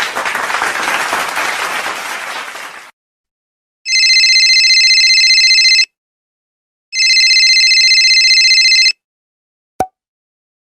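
Telephone ringing twice, each ring a steady trilling tone of about two seconds with a one-second gap between, preceded by a burst of applause that stops about three seconds in and followed by a single sharp click near the end.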